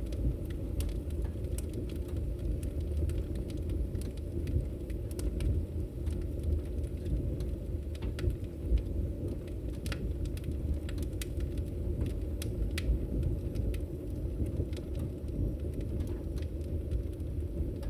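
Campfire crackling, with frequent sharp pops scattered over the steady low rush of a river.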